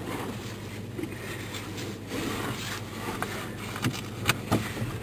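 Vehicle running, heard from inside the cabin: a steady low rumble, with a few sharp clicks about four seconds in.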